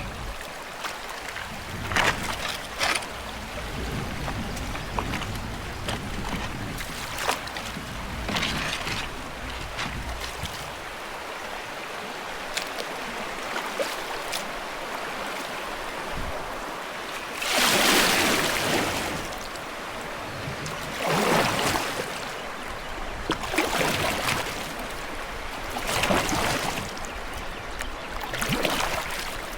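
Kayak paddle strokes swishing and splashing in river water at an uneven pace, over a steady wash of moving water, with one larger splash about two-thirds of the way through.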